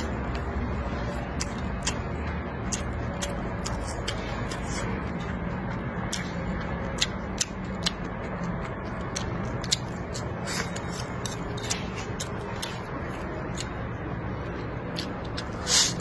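Close-up eating sounds: chewing crisp fried meat and rice, with many small sharp clicks and wet mouth smacks, over a steady low background noise. A louder slurp comes near the end as the bowl is raised to the mouth.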